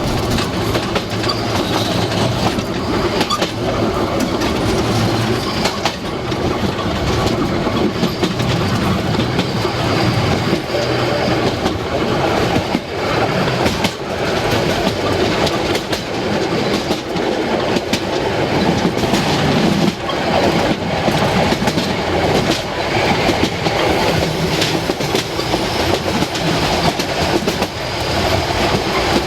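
Harz narrow-gauge railway train running along the track: a steady loud rumble with the clatter of wheels over the rails.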